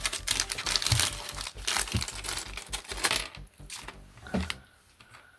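Packaging crinkling and rustling as model-kit parts are handled and unwrapped, with a few soft knocks; the crinkling thins out after about three seconds and fades away.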